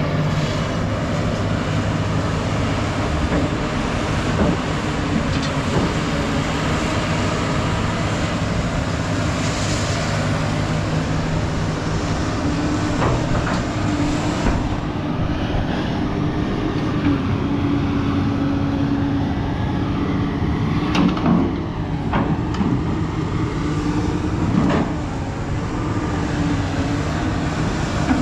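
Heavy scrap-yard machine, likely a shear, with its engine running steadily under load while it works on a steel axle. A few sharp metal knocks and clanks come through, several of them in the second half.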